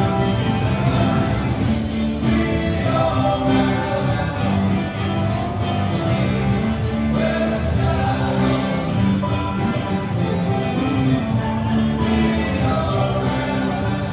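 A live band playing a rock song with a singer, with a steady drum beat.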